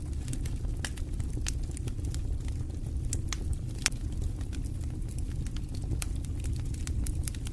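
Wood fire in a fireplace crackling: frequent, irregular sharp snaps and pops over a steady low rumble.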